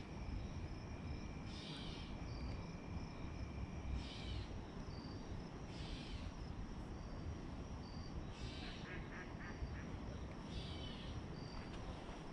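A few short bird calls, five or six in all, over a steady low rumble of outdoor noise, with short high chirps repeating every second or two and a faint steady high tone.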